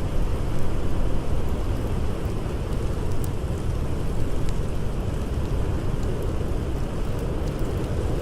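Blizzard wind blowing steadily with a deep rumble, with sharp crackles of a wood fire scattered here and there.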